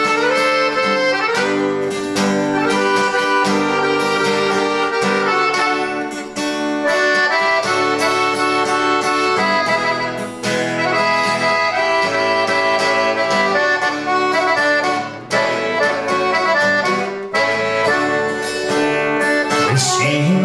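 Instrumental break in a live folk song: an accordion plays the melody over a plucked acoustic guitar accompaniment, with no singing.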